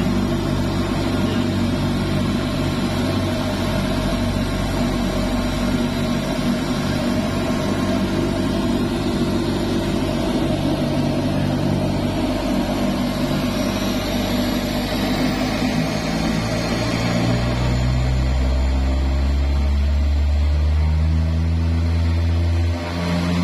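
L-410 Turbolet's Walter M601 turboprop running on the ground during an engine adjustment run. It holds a steady pitch, then shifts to a higher, fuller tone about three-quarters of the way through as the power setting changes.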